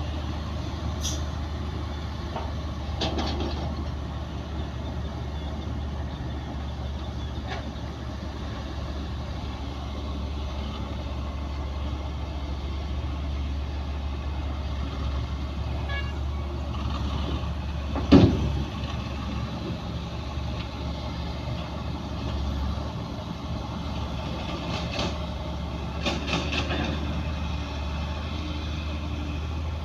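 Heavy earthmoving machinery (bulldozer and dump trucks) running steadily with a low diesel rumble, with a few short clatters and one sharp, loud bang a little past the middle.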